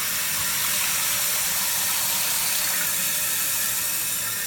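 Toilet tank refilling through a newly installed fill valve: water rushing in with a steady hiss that eases slightly near the end.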